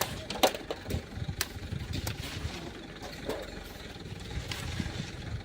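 A vehicle engine running low and steady, with a few sharp clicks and knocks over it.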